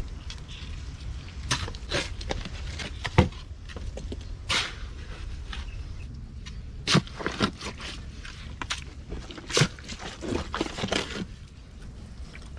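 Footsteps through mangrove mud: a string of uneven steps and knocks, the sharpest about three seconds in.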